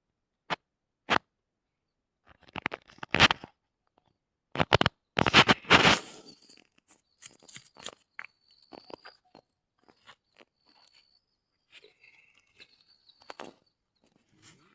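Several loud crunching, scraping noises in the first six seconds, then faint high bird chirps.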